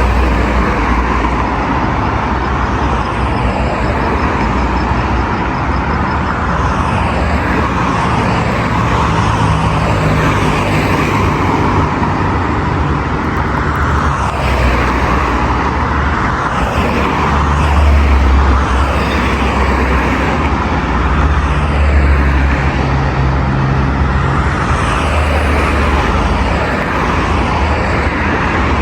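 Steady, dense road traffic: the continuous rumble and tyre noise of many cars on a busy boulevard, with individual vehicles swelling as they pass.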